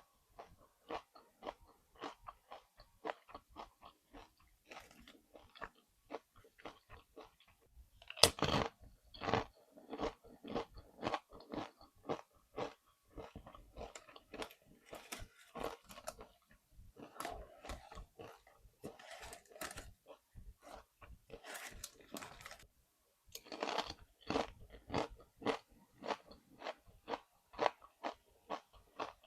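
Chewing and crunching of nachos made with Doritos tortilla chips, a steady run of crunches about two to three a second. A loud bite comes about eight seconds in, and another spell of louder crunching a little past twenty-three seconds.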